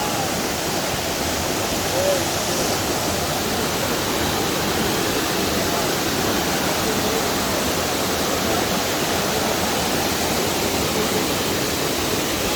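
Steady, loud rush of falling water, a continuous roar with no change.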